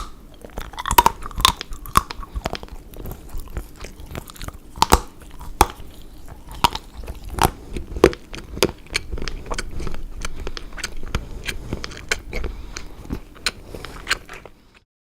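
Someone biting and chewing dark chocolate: a sharp snap at the start, then irregular crisp crunches and chewing clicks.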